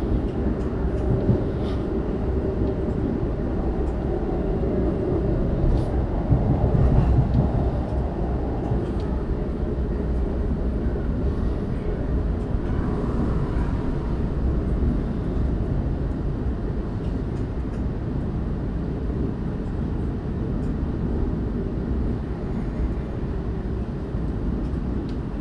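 Argo Sindoro executive passenger train running on the rails: a steady low rumble with a few faint clicks, swelling briefly about six seconds in.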